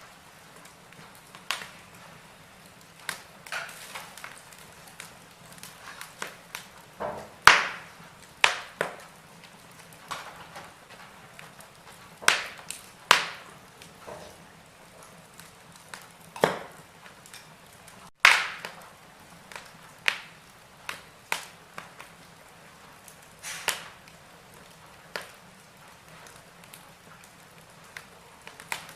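Wood fire in a fireplace crackling: irregular sharp pops and snaps of burning logs over a faint steady hiss, a few louder snaps among many small ones.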